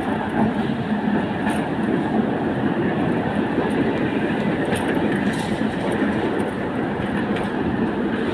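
Tram 4721 running along the track, heard from on board: a steady rumble of steel wheels on the rails, with a few faint high clicks.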